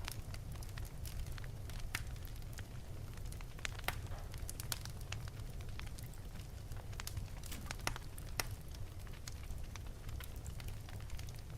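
Wood fire burning in an open fireplace: a steady low rumble of the flames with irregular sharp crackles and pops from the burning wood.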